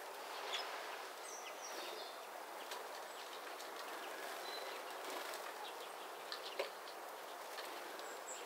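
Small birds chirping in short, scattered high calls over a steady outdoor background hiss, with one sharp tap about two-thirds of the way through.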